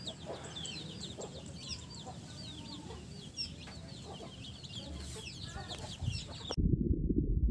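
Chickens clucking amid many quick, high chirps. About six and a half seconds in, this cuts off abruptly to a louder, muffled low rumble.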